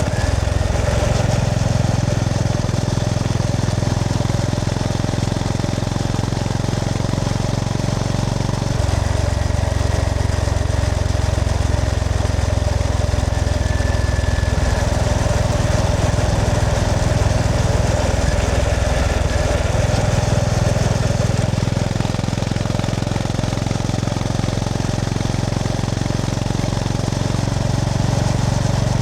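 Honda GB350S motorcycle's air-cooled single-cylinder engine running under way, its low note dropping and rising a few times, around nine seconds in and again near twenty seconds, with wind noise over it.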